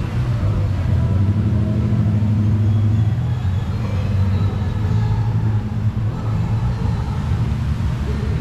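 A hot rod's engine running steadily at low revs with a deep, slightly uneven note. Faint voices are in the background.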